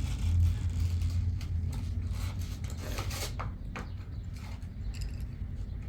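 Scratchy strokes of colouring on the paper page of a colouring book, uneven and busiest in the middle, over a low steady rumble.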